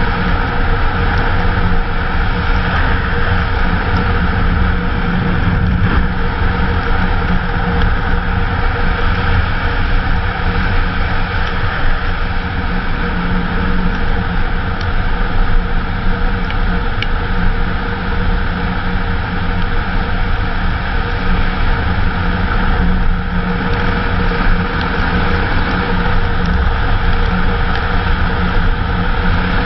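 Kawasaki KLR's single-cylinder engine running steadily at cruising speed, with a steady rush of wind and road noise over the microphone.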